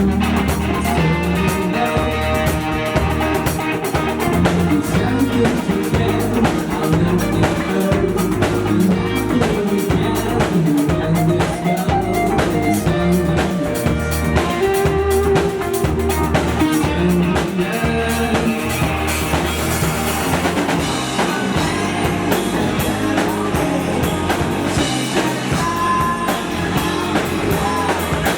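Rock band playing live, a drum kit keeping a steady beat under electric guitars.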